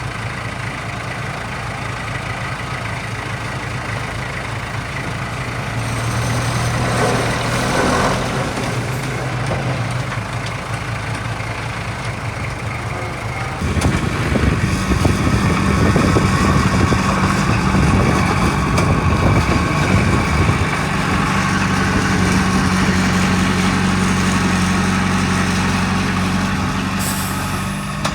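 Diesel engines of heavy earthmoving machinery running with a steady low hum. The sound swells briefly about a quarter of the way in, then turns louder and rougher about halfway through and stays so.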